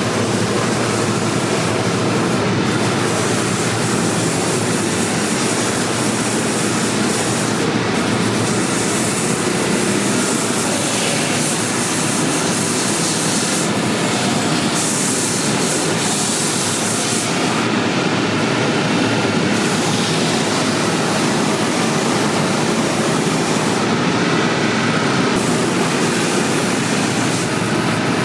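A machine running steadily with an even, loud hiss and rumble. The highest part of the sound shifts a little now and then.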